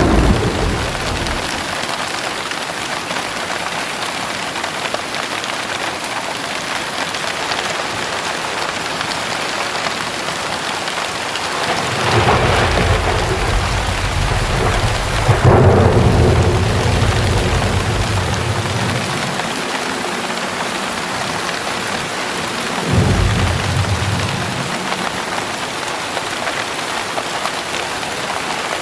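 Heavy rain pouring steadily with thunder rumbling: a brief roll at the start, a long rumble beginning about twelve seconds in with a louder clap a few seconds later, and a shorter rumble about six seconds before the end.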